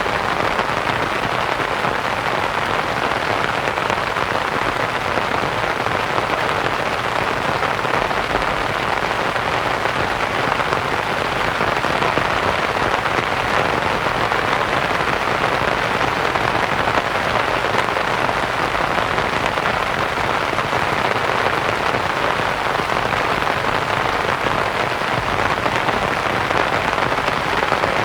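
Steady rain pattering on a canvas tent, blended with a constant white-noise hiss, even and unbroken throughout.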